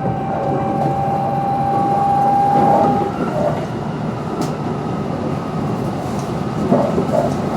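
Kintetsu 22600 series limited express electric train running at speed, heard from inside the car: steady rail and running noise, with a thin steady whine for the first three seconds that stops about three seconds in.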